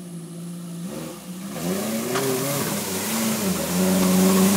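Suzuki Samurai engine revving up and down under load as it ploughs through a mud hole on tractor tires. From about one and a half seconds in, a rushing noise of churning tires and splashing mud comes in and grows louder, with a sharp knock just after two seconds.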